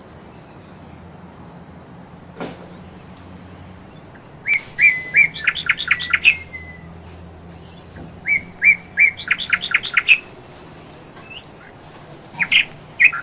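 Caged pet bird singing: two runs of quick, repeated high chirps, each about two seconds long, with a few more short chirps near the end. A faint steady low hum runs underneath.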